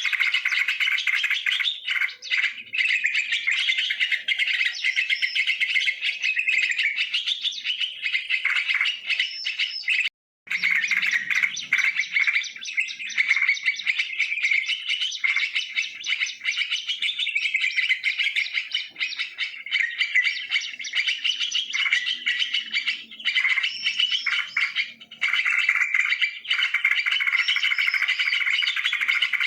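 Yellow-vented bulbuls chattering and calling without a break, a dense chorus of quick chirping notes, with a brief cut to silence about ten seconds in.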